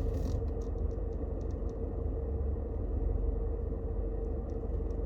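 Car cabin noise of a small car moving slowly: a steady low rumble with a constant hum, and a few faint clicks in the first couple of seconds.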